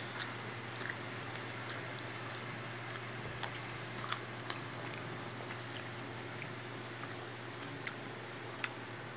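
Corn on the cob being bitten and chewed: soft, irregular mouth clicks and smacks over a steady low hum.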